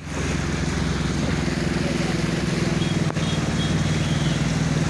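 Motor vehicle engine running steadily, a low hum with a fast even pulse, over a hiss of background noise. A single sharp click comes about three seconds in.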